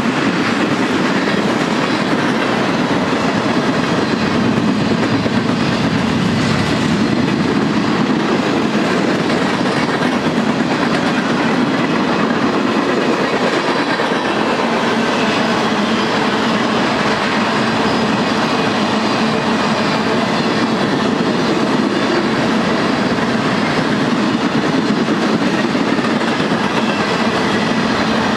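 Freight train of tank cars rolling past close by: steel wheels clicking over the rail joints in a steady, unbroken rolling noise.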